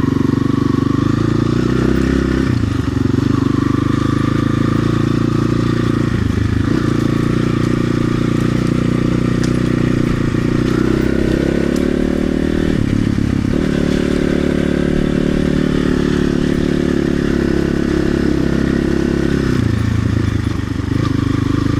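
RXB250XL dirt bike engine running under way. Its note breaks and settles at a new pitch a few times, about 3, 6.5, 13 and 20 seconds in.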